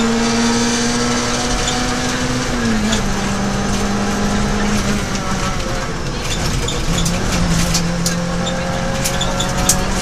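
Peugeot 106 XSi rally car's four-cylinder engine heard from inside the cabin, pulling hard at high, fairly steady revs. The engine note dips slightly about three seconds in and again a few seconds later. Several sharp clicks sound near the end.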